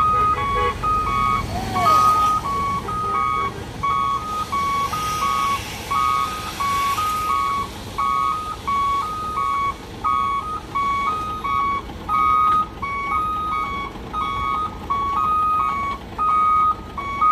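Truck reversing alarm beeping in two alternating tones, a high note then a low note, the pair repeating about every 0.7 seconds, over a truck's diesel engine running.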